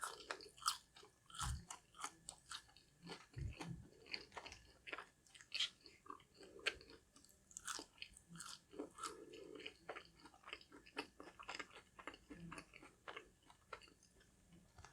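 Close-miked chewing and biting of crispy fried fast food: many small irregular crunches and wet mouth clicks, with a couple of soft low thumps near the start.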